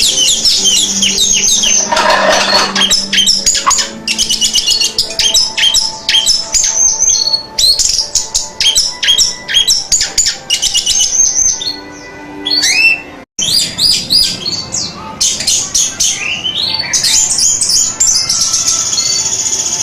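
Orange-headed thrush singing a fast, varied song of loud whistles, trills and quick chattering notes, with a sudden brief break about two-thirds of the way through.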